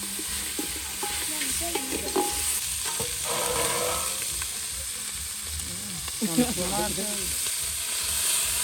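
Food sizzling and frying in a cooking pot while being stirred, a steady hiss throughout. A brief voice-like sound is heard about six seconds in.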